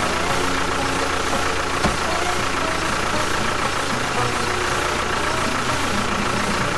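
A machine running steadily: an even, engine-like drone with a faint steady high whine.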